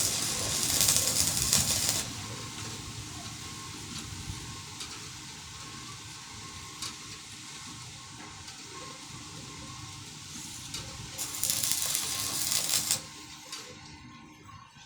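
Electric arc welding crackling and sizzling. There are two loud stretches of about two seconds each, one at the start and one about eleven seconds in, with quieter crackle between them.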